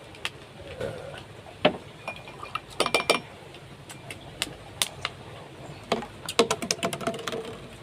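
Scattered clinks and knocks of dishes and eating utensils: a couple of dozen short, sharp taps at uneven intervals, some ringing briefly, clustered around three seconds in and again near the end.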